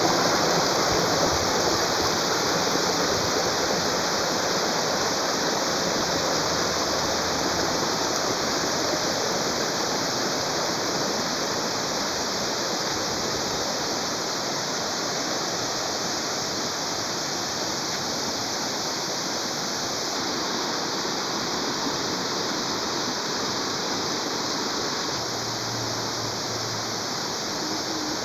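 Waterfall's falling water rushing steadily, easing down slightly in loudness over the stretch.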